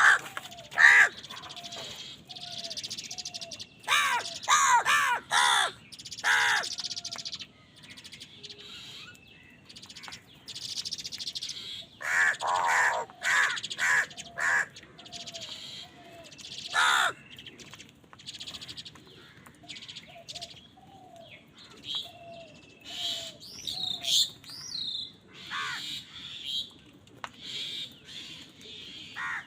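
Crows cawing in bursts of several harsh calls in quick succession, loudest near the start, about four seconds in and again around twelve to fourteen seconds. Fainter chirps of smaller birds fill the gaps between the caws.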